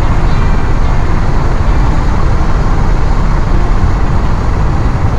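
Chevrolet Astro van driving at road speed: a steady, loud rumble of engine and road noise.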